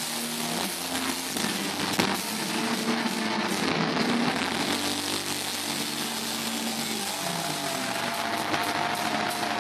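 Heavy rock band playing live: distorted electric guitar riffs over drums, recorded from the crowd so the sound is saturated and smeared. From about seven seconds in, one long high guitar note is held over the riff.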